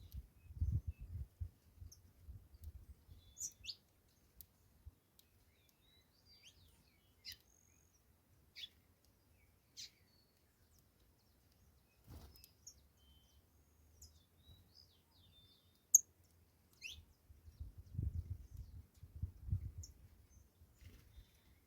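Saffron finch giving scattered short, high chirps with gaps between them. Bursts of low rumbling noise come at the start and again near the end, and there is one sharp click about three-quarters of the way through.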